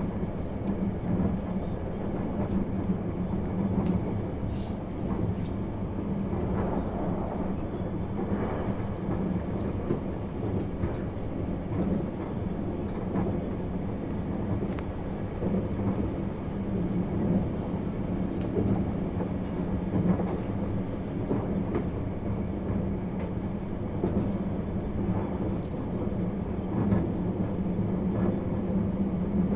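Inside a JR 651 series electric multiple unit under way: a steady hum of running noise heard from the cabin, with a constant low tone.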